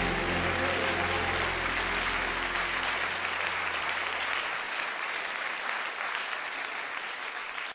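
Audience applauding as a song ends, with the music's last low notes dying away in the first few seconds. The clapping eases off slowly, then cuts off suddenly at the end.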